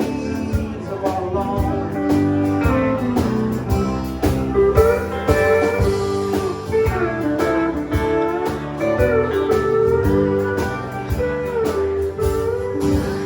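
A country band playing live in an instrumental break: a lead guitar solo with gliding, bending notes over steady drums and bass.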